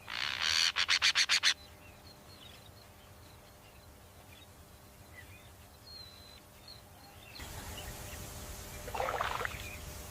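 A rapid run of about eight sharp bird calls in the first second and a half, then faint scattered bird chirps over a quiet natural background. A short louder sound comes near the end.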